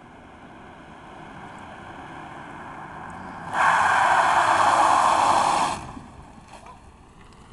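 Dodge pickup truck doing a burnout: a steady sound slowly builds, then a loud burst of spinning-tyre and engine noise starts suddenly about three and a half seconds in and cuts off about two seconds later.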